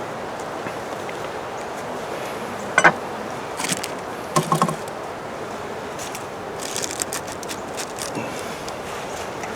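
Wind on the microphone, with a sharp knock about three seconds in, a short cluster of knocks a little later, and a few light scrapes as beehive parts and fondant are handled.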